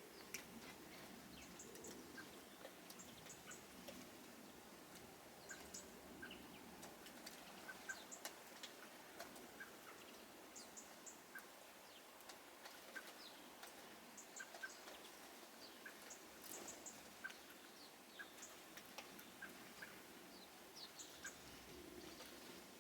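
Faint small birds chirping: short high chips, often in quick twos and threes, mixed with single lower chirps, scattered throughout.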